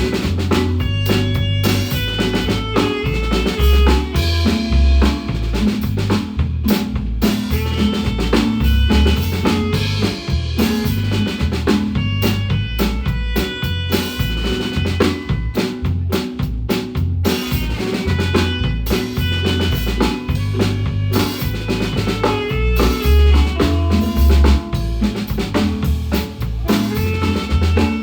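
Guatemalan marimba ensemble playing an instrumental tune with a drum kit keeping the beat, snare rimshots and bass drum under rapid struck marimba notes.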